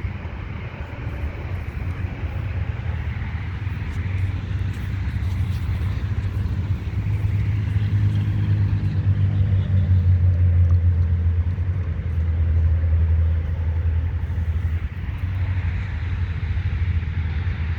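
Low vehicle rumble that swells to its loudest about halfway through and then eases off.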